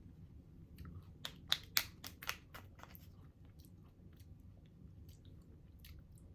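A person biting and chewing crunchy food close to the microphone: a run of sharp crunches in the first few seconds, then sparser, fainter ones.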